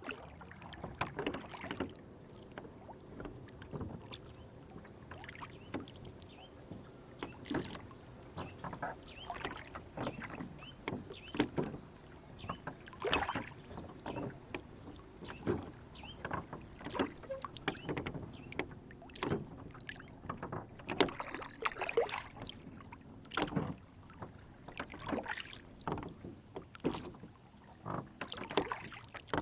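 Lake water lapping and splashing against a small wooden rowboat's hull, with frequent irregular small splashes and light knocks.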